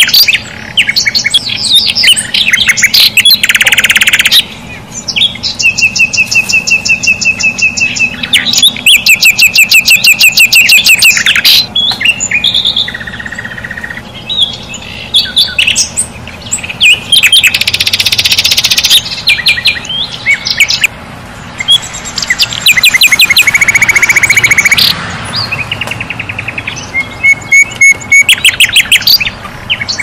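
Birds chirping and singing, one call after another: rapid runs of repeated high notes, trills and short whistles.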